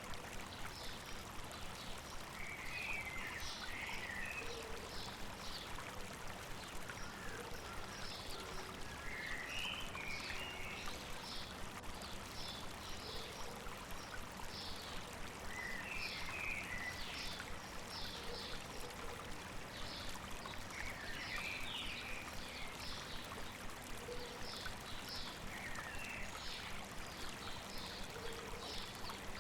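River or stream babbling steadily, with birds calling over it: many short, high chirps in quick runs and a lower warbled phrase that returns every five or six seconds.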